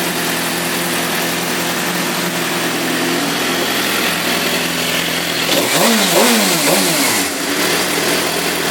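2006 Suzuki GSX-R750's inline-four engine idling steadily, then revved in three quick throttle blips a little past halfway, each rising and falling, before settling back to idle.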